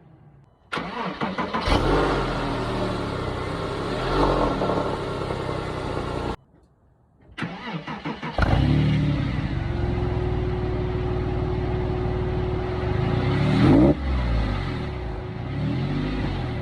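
Porsche 997 911's flat-six engine being started twice through its exhaust: the first time it cranks, catches and revs before cutting off suddenly; the second time it cranks, fires and settles into a steady idle, with two short throttle blips near the end.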